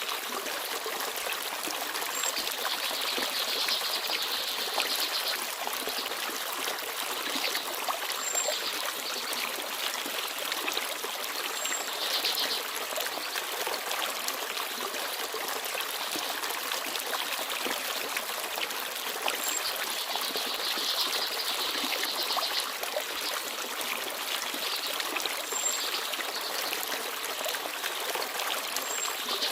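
Forest stream babbling and trickling, a steady rush of water with swells every several seconds, and a few brief, high peeps from small birds now and then.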